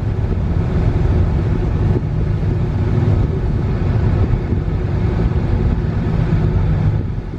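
Steady hum and rush inside a car: the air conditioning blowing hard against the heat, with the engine running underneath.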